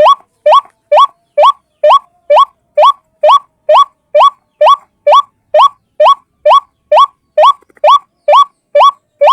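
A single white-breasted waterhen calling over and over: short upward-sweeping notes in a steady, even rhythm of about two and a half a second.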